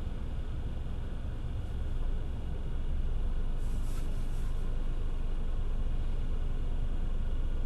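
Car driving on a wet road in the rain: a steady low road-and-engine rumble with tyre hiss. It grows a little louder about two and a half seconds in, with a brief higher hiss about four seconds in.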